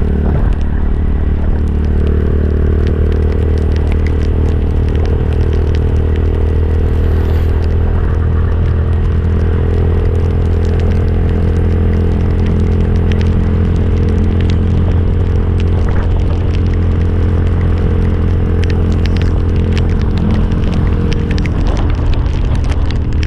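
Motorcycle engine running at a steady, unchanging speed, with scattered light clicks over the top.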